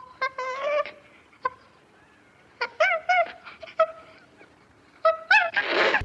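An animal giving short, pitched calls in quick clusters, some of them bending up and down in pitch, with a short noisy rush just before the end.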